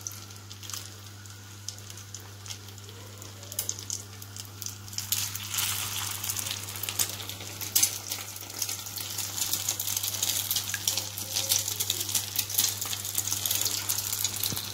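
Egg-coated potato tikkis shallow-frying in oil on a tawa, a steady sizzle with many small crackles and pops. The sizzling grows louder about five seconds in.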